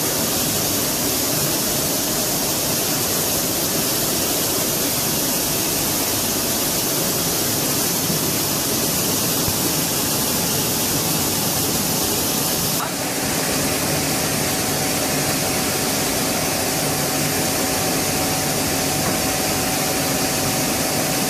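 Mazak Integrex 70Y/3000 CNC lathe running with a steady, loud hiss of machinery. About 13 s in, the hiss drops in its upper range and a steady hum tone comes in.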